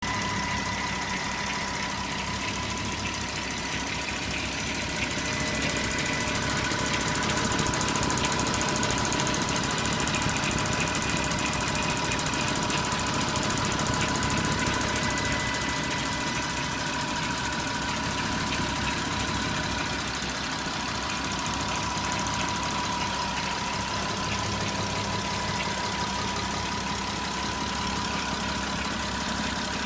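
Porsche Cayenne 957 3.6 FSI V6 engine running steadily, with a dense fast ticking and knocking and a steady whine over the engine note. The owner puts it down to a grinding timing chain on the left side of the engine and FSI knocking on the right.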